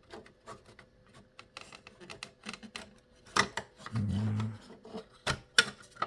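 Plastic CPU fan shroud scraping and rubbing against the computer case as it is worked into place over the heatsink, with several sharp clicks and snaps in the second half. A short low hum about four seconds in.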